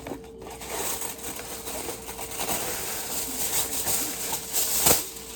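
Aluminium foil being pulled out and crinkled as it is spread over a baking pan, with a sharp snap near the end.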